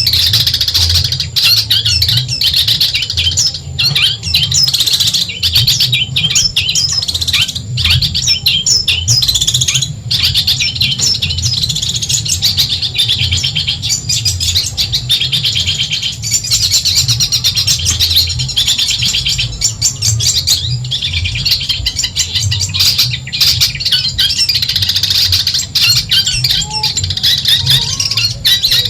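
Long-tailed shrike (cendet) singing nonstop: rapid, dense chattering chirps and trills with hardly a pause, over a steady low hum.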